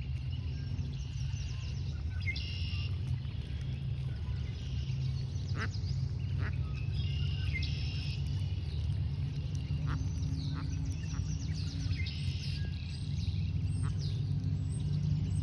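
Mallard ducks quacking over a steady low rumble, with short high bird calls recurring every four to five seconds.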